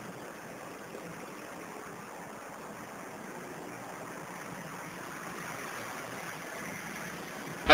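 Steady hissing background noise with no distinct events, growing slightly stronger in the second half.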